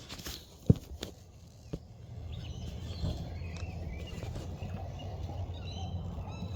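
A sharp click a little under a second in, then a steady low rumble that builds from about two seconds, with birds chirping over it.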